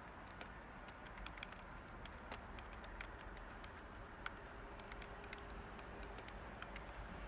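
Light typing on a computer keyboard: irregular soft key clicks, a few a second, over a steady background white-noise hiss.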